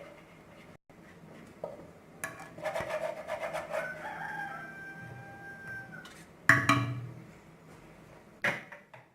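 A rooster crows once, ending in a long held note. This is followed by a loud sharp knock and, two seconds later, a second, weaker knock.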